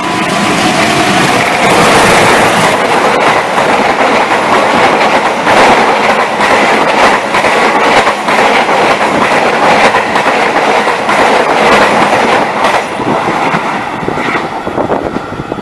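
Parcel train hauled by a diesel locomotive passing through a station at speed: a loud rush of wagons with fast clattering of wheels over rail joints, easing off near the end as the train draws away.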